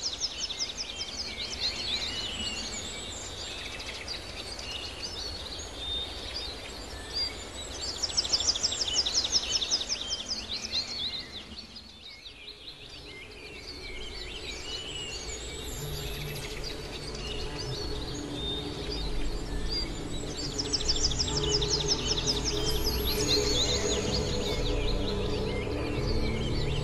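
Wild birds singing, with bursts of fast, rapidly repeated trilling notes. About halfway through, soft ambient music with long held tones fades in underneath.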